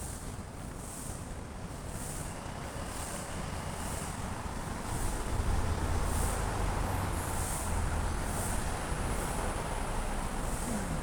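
Outdoor ambience in light drizzle: a steady hiss with a low rumble that swells about halfway through and holds, and a faint high chirp repeating a little more than once a second.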